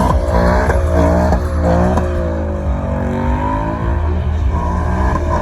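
Car engine revving, its pitch sinking and climbing again over a second or two, over a heavy low exhaust rumble.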